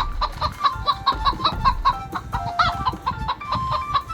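Domestic hen clucking: a quick, steady run of short clucks, several a second, with a longer drawn-out call now and then.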